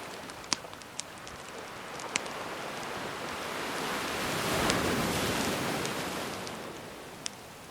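Gentle ocean waves; one wave swells to a peak about halfway through and draws back. A wood fire crackles alongside, with a few sharp pops.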